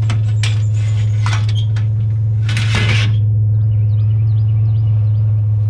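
Junk being slid into a loaded truck: a few clanks and knocks, then a short loud scrape as the item is pushed in, over the steady low hum of the idling truck engine.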